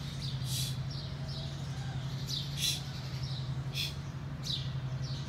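Small birds chirping, a string of short high calls about every half second, over a steady low hum.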